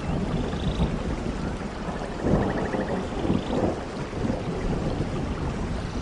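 Steady rain with low rumbling thunder; the rumble swells about two seconds in.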